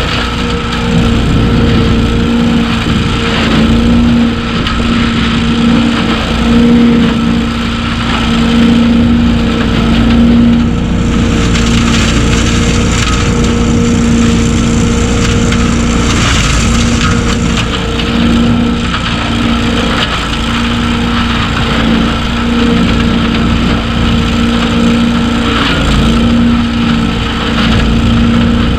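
BillyGoat debris loader (leaf vacuum) running steadily, its engine hum under a loud rushing noise of wet leaves being sucked through the machine.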